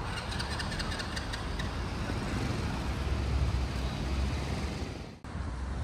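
Street traffic: cars going by with a steady low rumble, a run of faint ticks in the first second and a half, and a brief dropout about five seconds in.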